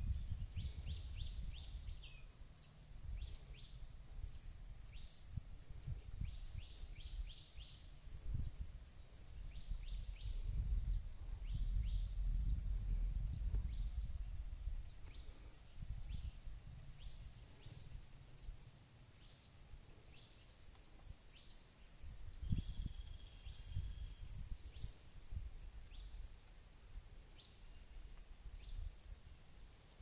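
Small birds chirping: many short, quick, high calls, several a second in the first few seconds and sparser later on.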